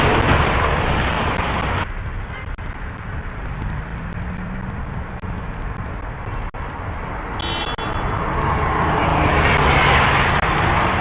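Traffic noise: a steady road rumble that drops about two seconds in and swells again near the end, with a short high beep about seven and a half seconds in.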